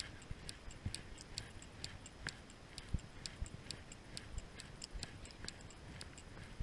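Raindrops ticking close to the microphone: irregular light, sharp ticks, several a second, with a few soft low thumps.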